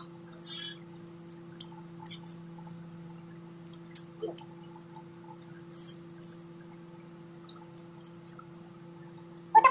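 A person eating with their hands: soft chewing and small wet mouth clicks and smacks, scattered and irregular, over a steady low electrical hum. Near the end comes a brief, louder pitched sound.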